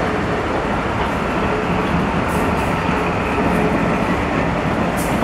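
Train of passenger coaches rolling slowly past along a platform: a steady noise of wheels running on the rails.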